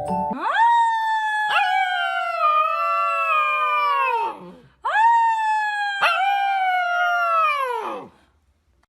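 Dog howling: two long howls, each rising quickly at the start and then sliding slowly down in pitch, with a short catch in the voice about a second into each.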